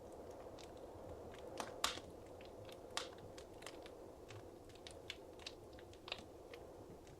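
Wood fire crackling in a fireplace: irregular small pops and snaps over a soft steady hiss, with the sharpest snaps about two and three seconds in.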